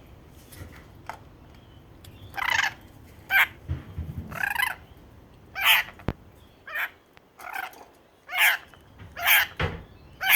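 A bird making a series of short, harsh, noisy sounds, about nine over ten seconds and irregularly spaced, with a few low thumps and a sharp click among them.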